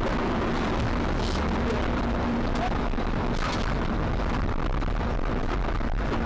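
Steady driving noise of a moving vehicle as picked up by a dashcam: a constant low rumble with hiss above it and a faint steady hum.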